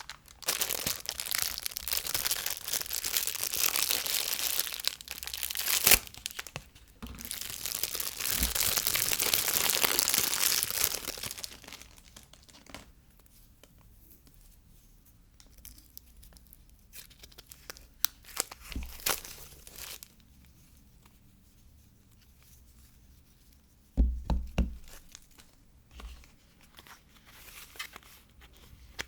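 Soap wrappers being torn open and crinkled by hand during unpacking, in two long crackling stretches with a sharp snap between them, then quieter handling clicks and a few knocks near the end.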